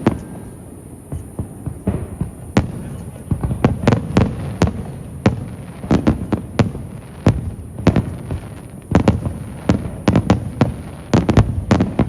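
Fireworks shells bursting overhead, a rapid irregular run of sharp bangs, several a second in clusters, each followed by a low rumbling echo.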